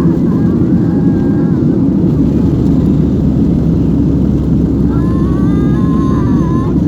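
Airliner engines running during take-off: a loud, steady, low rumble that does not rise or fall.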